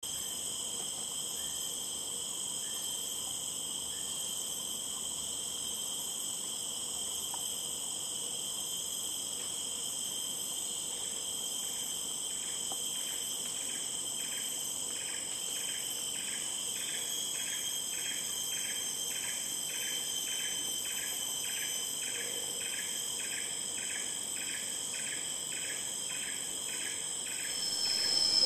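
Tropical rainforest insect chorus: a steady, high-pitched shrilling from cicadas and crickets. About eleven seconds in, a rhythmic pulsing call joins it, repeating about twice a second.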